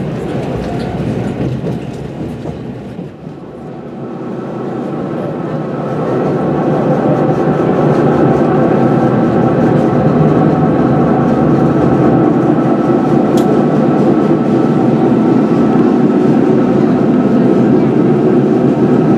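Taiwan Railway Fu-Hsing passenger train running on the track, heard from inside the carriage. The running noise dips about three seconds in, then grows over the next few seconds and stays loud and steady with a faint constant hum.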